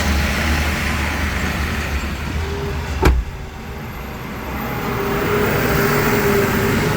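Truck engines running on a road: a low steady rumble that ends with one sharp knock about three seconds in, then a steadier engine hum building toward the end.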